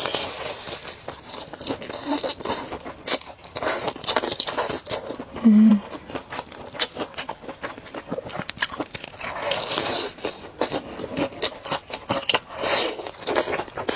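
Close-miked eating sounds: crunchy bites and chewing, a steady run of small clicks and crunches. A brief low vocal hum comes about halfway through.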